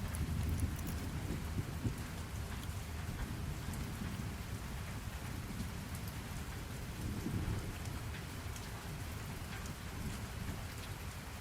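Steady rain falling, with scattered drops ticking on a surface, and a low rumble swelling near the start and again about seven seconds in.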